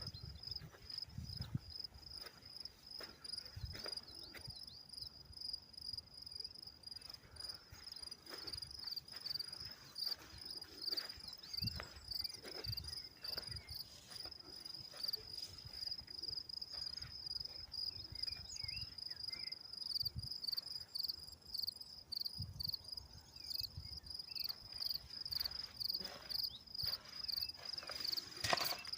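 Crickets chirring in a continuous high-pitched trill that breaks into distinct rapid pulses near the end, with scattered faint knocks.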